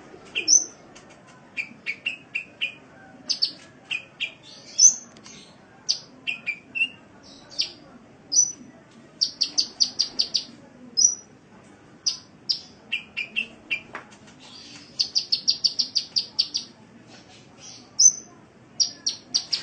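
Sunbird song: fast trills of short, high notes, about eight a second, alternating with lower single chirps and brief phrases.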